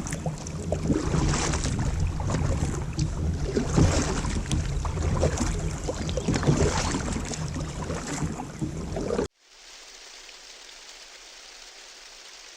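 River water and wind noise on the microphone from a kayak, with a heavy low rumble and scattered small knocks. It cuts off abruptly about nine seconds in to a steady faint hiss.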